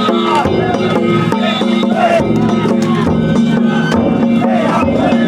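Traditional Japanese festival music: drums and wood-block-like percussion keeping a steady beat under a stepping melody line.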